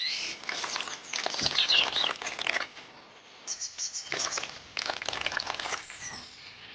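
Rapid small clicks and scrapes of hand work with miniature bricks and tools, with birds chirping throughout.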